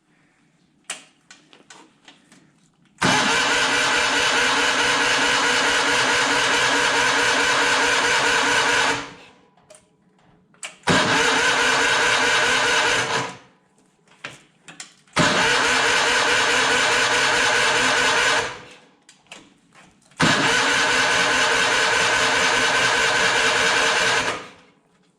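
A tractor's engine being cranked by its starter in four long tries of a few seconds each, with short pauses and a few light clicks between them; the engine never catches, which the owner puts down to it flooding.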